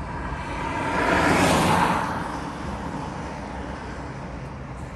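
A car passing close by: road and tyre noise swells to a peak about a second and a half in, then fades back to a low steady rumble.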